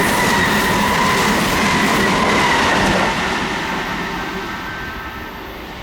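Kintetsu train passing through a station platform without stopping: a loud rush of wheels on the rails with a steady high whine, fading away after about three seconds.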